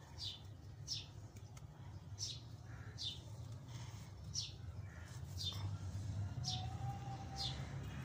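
A bird chirping over and over: short, high chirps that fall in pitch, about one a second and often in pairs, over a steady low hum.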